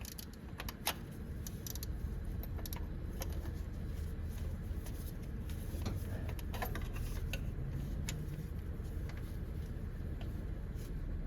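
Scattered light metallic clicks and clinks of a hand tool working at a 12 mm bolt, over a steady low hum.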